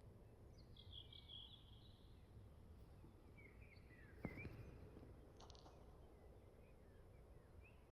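Near silence outdoors: faint bird chirps and short calls over a low, steady background rumble, with one brief click about four seconds in.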